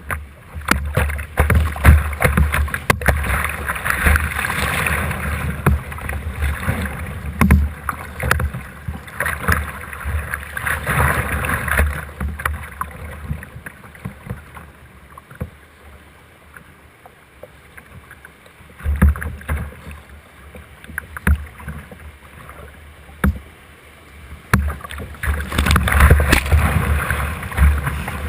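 Rushing whitewater and paddle splashes around a kayak running class 3 rapids, with a low buffeting rumble on the microphone. The water noise swells loudly for several seconds at a time, eases off in the middle, and builds again near the end.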